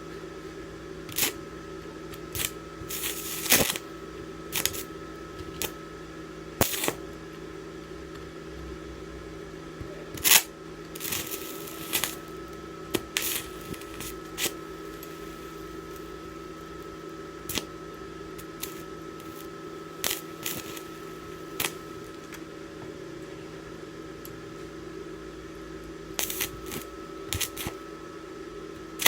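DC inverter arc welder in use: a steady electrical hum and whine, with irregular sharp crackles and pops scattered through it.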